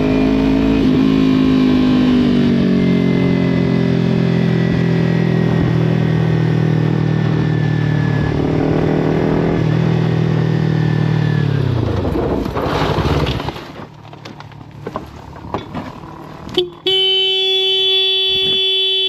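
Motorcycle engine running steadily under way, its pitch falling away as it slows about twelve seconds in. Then a quieter stretch with scattered clicks, and near the end a steady held tone starts.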